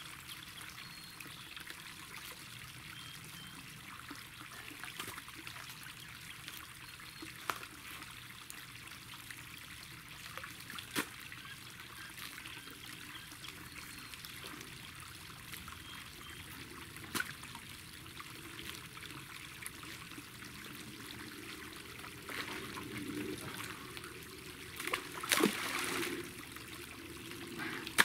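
Water trickling steadily through a leaking earthen dam, with a few sharp knocks scattered through it and a louder stretch of knocking near the end.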